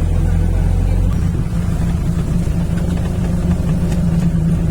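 A vehicle engine running steadily under way, heard from on board, its low drone shifting about a second in.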